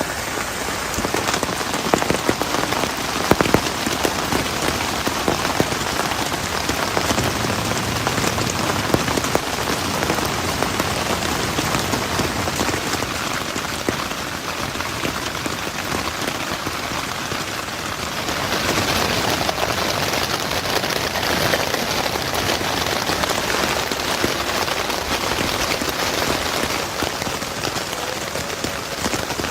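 Heavy rain falling, a steady hiss full of separate drop hits close by, growing a little heavier about two-thirds of the way through.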